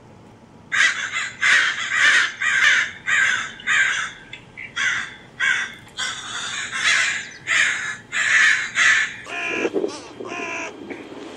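Recorded animal calls played through a small portable speaker: about fifteen short, harsh calls in quick succession, then a lower-pitched call near the end.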